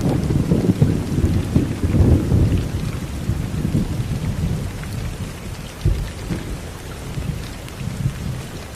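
Steady rain falling, with a soft low roll of thunder that is loudest in the first couple of seconds and then dies away. A single brief thump comes about six seconds in.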